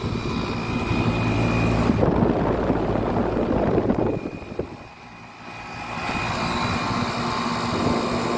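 Outdoor unit of a 1995 Tempstar 3-ton central air conditioner running: its Copeland reciprocating compressor hums steadily under the condenser fan, with wind buffeting the microphone. The level dips for about a second around five seconds in, then returns.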